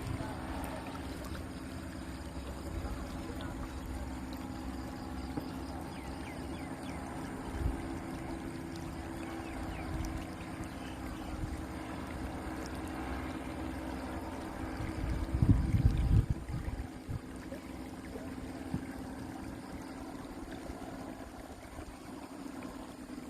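Distant paramotor engines droning steadily in two pitches, the higher one fading about two thirds of the way through. Gusts of wind buffet the microphone briefly just after that.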